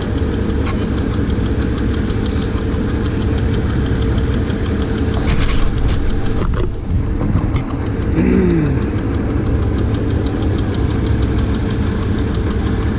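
Hovercraft engine running steadily with a constant hum, with a short falling tone about eight seconds in.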